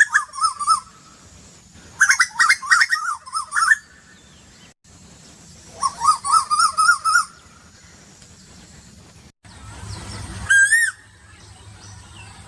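A bird calling in three bursts of rapid, wavering notes, each lasting one to two seconds, then a single short whistled note about ten seconds in.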